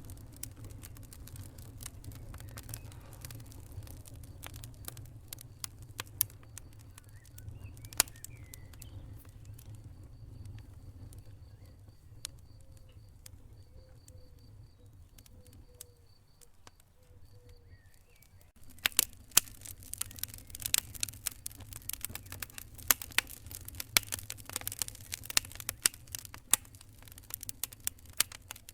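Wood fire crackling: irregular sharp pops and snaps over a low rumble of flames. It quietens for a few seconds midway, then the popping grows denser and louder about two-thirds of the way through.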